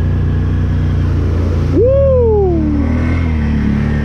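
Can-Am 1000's V-twin engine running at a steady speed, with a person's shout that rises and then falls in pitch about two seconds in.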